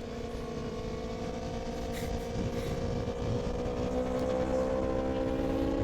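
Aprilia RSV4 superbike's V4 engine running at steady high revs at highway speed. Its pitch sags slightly, then holds, and it grows a little louder toward the end, over a low rush of wind noise.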